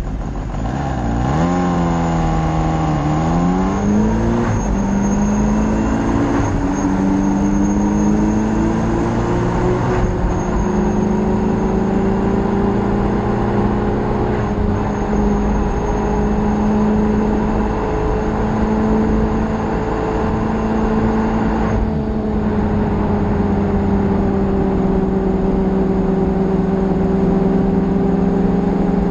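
Motorcycle engine under way: its pitch drops and climbs in the first few seconds as it accelerates through the gears, then holds nearly steady at a cruise over a constant rushing noise.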